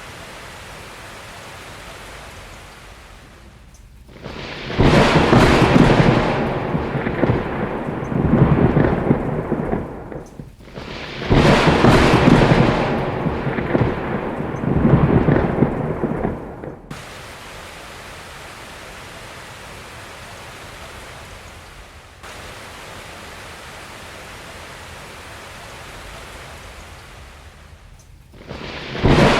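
Steady rain hiss with two long, loud rolls of thunder, each rumbling for about five seconds, and a third roll starting near the end.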